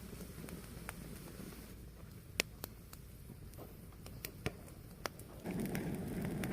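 Fire burning, a low steady rumble with scattered sharp crackling pops. About five seconds in, the flames grow louder and fuller.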